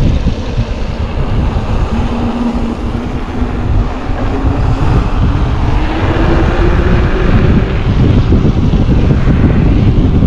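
Strong wind buffeting the microphone, a loud, constant low rumble, with a faint tone gliding upward in pitch through the middle.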